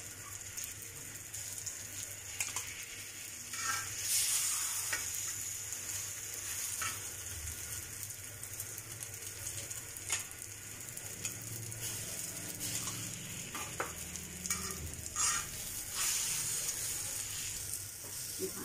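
Egg-coated shami kebabs sizzling in shallow oil on a flat griddle (tawa), with a few short scrapes and taps now and then as they are turned over.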